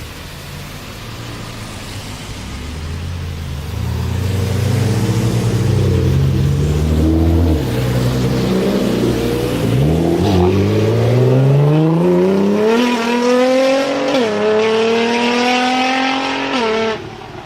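Nissan R35 GT-R's twin-turbo V6 through a straight-pipe exhaust, running low at first, then accelerating hard with the pitch climbing steadily. About two-thirds through the rise the pitch drops sharply at an upshift, climbs again, and cuts off abruptly near the end.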